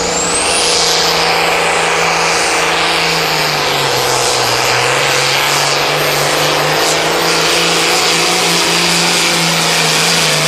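Turbocharged diesel engine of a pro farm pulling tractor running flat out under load, a steady heavy engine note. A high turbo whistle climbs in the first second or so, then holds.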